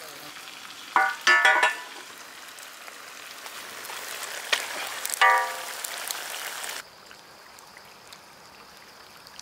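Turkey curry sizzling in a large iron kadai, with two short bursts of voices and a light metal clink; the sizzling cuts off suddenly about seven seconds in, leaving a quieter background.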